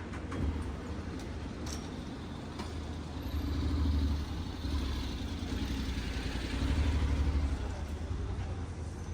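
City street traffic: motor vehicles passing close by over a steady background hum, with two louder passes about four and seven seconds in.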